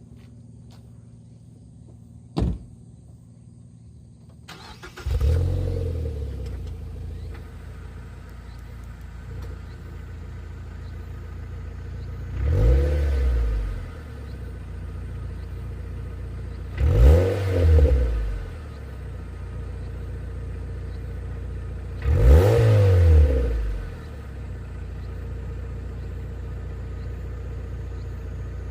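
Mazda NC Roadster four-cylinder engine heard through an AutoExe Premium Tail Muffler. After a single click, the engine starts about five seconds in and settles to idle. It is then blipped three times, about five seconds apart, the middle one a double blip, returning to idle each time.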